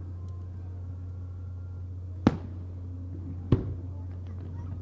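Two sharp bangs of aerial fireworks a little over a second apart, past the middle, each with a short ringing tail, over a steady low hum.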